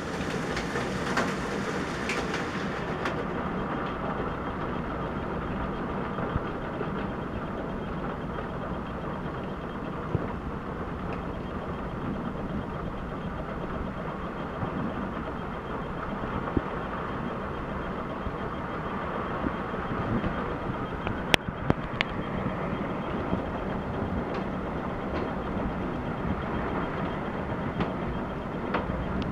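Heavy thunderstorm rain and wind, a steady rushing noise, with a few sharp clicks about two-thirds of the way through.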